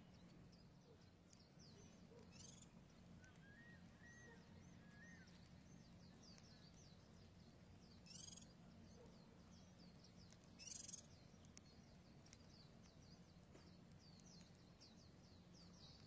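Faint, rapid high-pitched chirping of small birds, with a few short louder bursts of chirps about 2, 8 and 11 seconds in, over a low steady hum.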